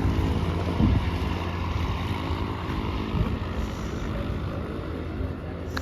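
Aircraft on final approach to land, its engine a steady droning hum, with gusts of wind buffeting the microphone now and then.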